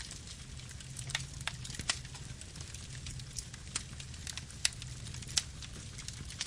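Campfire burning: irregular sharp crackles and pops of burning wood over a steady low rumble of flame, with a few louder snaps among them.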